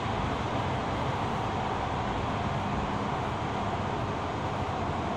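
Toyo Rapid Railway 2000 series commuter train heard from inside the passenger car: steady running noise of the train rolling along the track, with a faint low hum under it.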